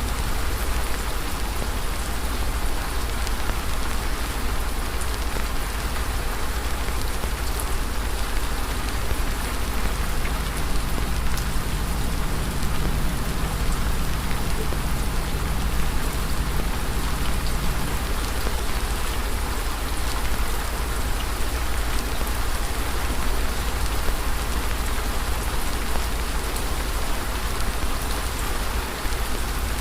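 Steady rain ambience: an even hiss of falling rain with faint scattered drop ticks over a low rumble.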